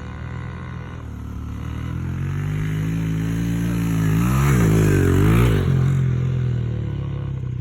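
Small Yamaha dirt bike engine revving as it comes closer and passes, growing louder toward the middle, its pitch dipping and climbing again twice at the loudest point, then fading away.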